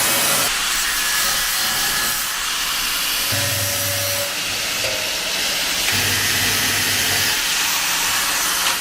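Metalworking power tool running with a loud, steady hiss, stopping abruptly at the end.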